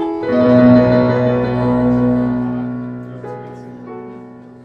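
Piano music: a chord struck just after the start, left to ring and slowly fade, with a softer chord change about three seconds in.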